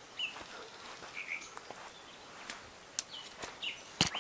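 Small birds chirping, with short calls and a few falling whistled notes, over a faint outdoor background hiss. A few sharp clicks are mixed in, the loudest about three and four seconds in.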